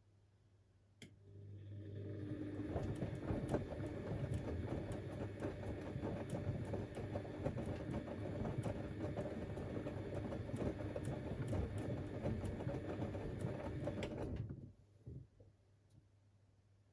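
Siemens Extraklasse XLs 140 A washing machine turning its drum during the 60°C cotton wash: the motor starts with a click about a second in, runs up, and the laundry tumbles and splashes with many small knocks over a steady motor hum for about thirteen seconds, then stops suddenly with a couple of settling knocks near the end.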